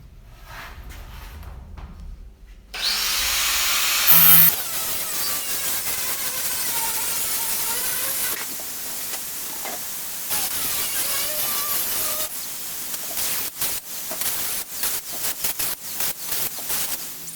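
Angle grinder with a cut-off disc cutting through sheet metal: it starts about three seconds in and runs loud and steady, its whine wavering as the disc bites, then breaks into short stop-start cuts over the last few seconds.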